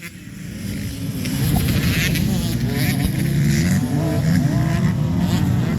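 Motocross bike engines racing, revving up and down, growing louder over the first second or so and then staying loud.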